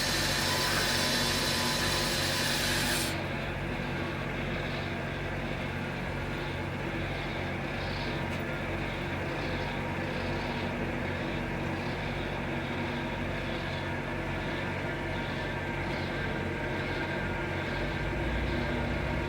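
Ellis horizontal mitering bandsaw running steadily, with a faint high tick repeating about once a second. A loud high hiss cuts off suddenly about three seconds in, leaving the saw's steady hum.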